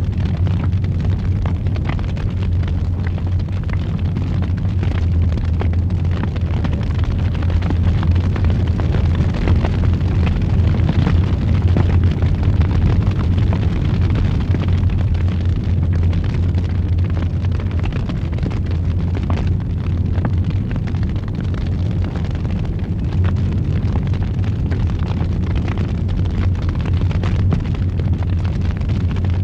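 Wood fire burning steadily, a continuous low rumble of the flames with frequent small crackles and pops throughout.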